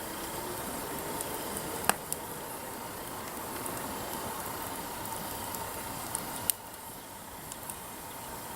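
Wood campfire burning with a steady hiss and occasional sharp crackling pops, the loudest about two seconds in and another about six and a half seconds in.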